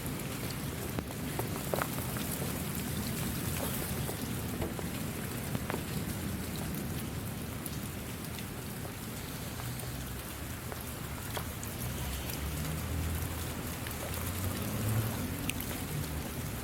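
Steady rain falling, with scattered individual drops ticking through it and a low rumble underneath that swells in the second half.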